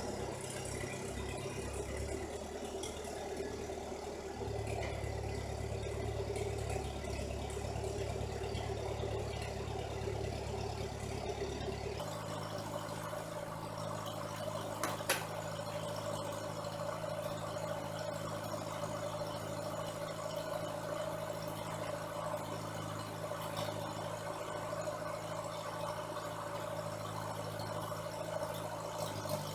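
A vehicle engine idling steadily. About twelve seconds in, the pitch and tone change abruptly, and a single sharp click comes a few seconds later.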